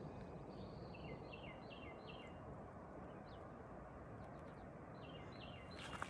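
A small songbird singing two short phrases of four or five quick down-slurred notes, one about a second in and another about five seconds in, over a steady low background rush.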